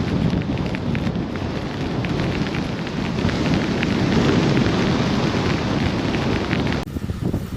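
Storm wind buffeting the microphone in a rumbling roar, with scattered small ticks above it. Near the end it cuts abruptly to a quieter scene.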